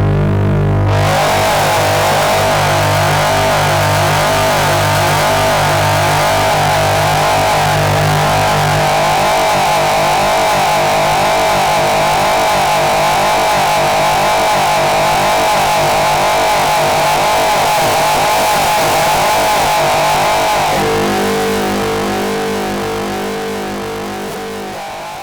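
Experimental harsh noise music: a dense wall of hissing, distorted noise cuts in about a second in over low droning tones. Later the low drone drops away, then the noise thins to a lower drone and fades out near the end.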